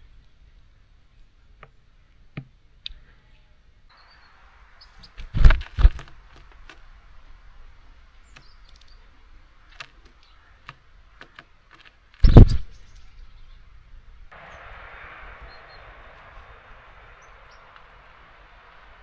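Birds knocking on a garden bird feeder close to the microphone, with sharp knocks twice in quick succession about five seconds in and once more about twelve seconds in, among light ticks of pecking and hopping. A soft hiss comes and goes.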